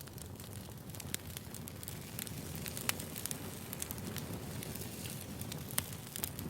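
Wood fire burning, a steady low rumble dotted with irregular crackles and sharp pops, two of them louder about three and six seconds in.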